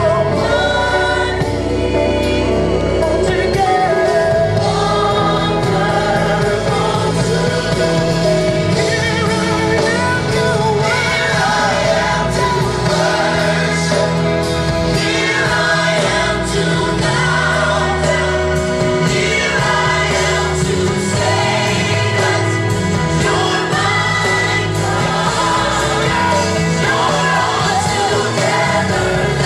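Gospel choir singing a worship song with a band accompaniment and a steady bass line.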